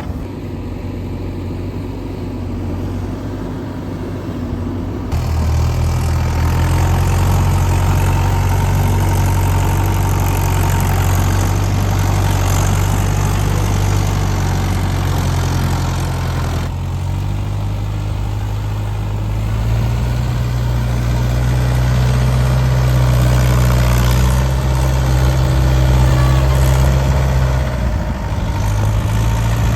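Tractor diesel engine running, its revs stepping up and getting louder about five seconds in, easing off about two-thirds of the way through, then climbing again and dipping briefly near the end.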